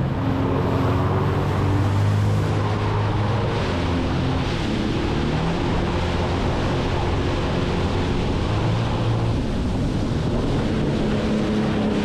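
Jet ski engine running under way, its pitch shifting up and down, over a steady rush of wind and water.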